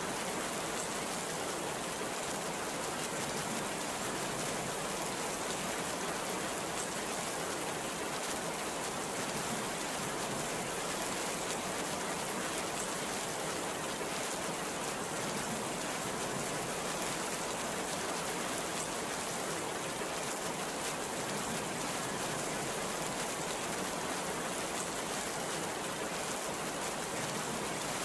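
Heavy rain falling steadily, a dense, even hiss with no letup and no thunderclap.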